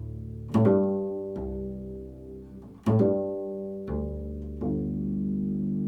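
A plucked string instrument playing slow, low single notes, about five in all, each struck sharply and left to ring out and fade.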